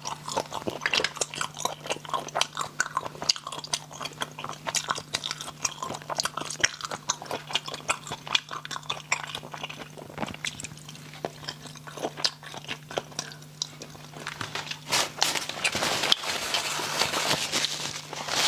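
A person eating spicy snails close to the microphone: rapid chewing and crunching with many sharp clicks, growing denser and louder near the end.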